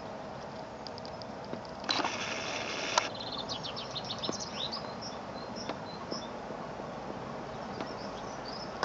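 Small birds chirping in short high notes, with a loud buzzy trill lasting about a second near two seconds in, over a steady background hiss.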